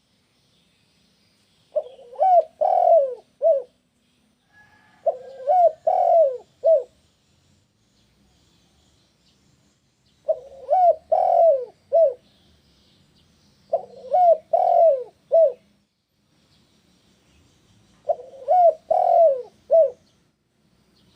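Spotted dove (tekukur) cooing: five repeated coo phrases, each a run of three or four rising-and-falling notes lasting about two seconds, separated by pauses of a few seconds.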